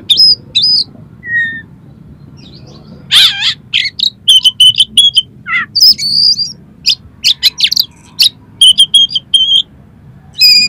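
Oriental magpie-robin (kacer) singing a rapid string of sharp chirps and short whistled notes, harsh 'kasar' fill phrases, sparse at first and then a dense run from about three seconds in.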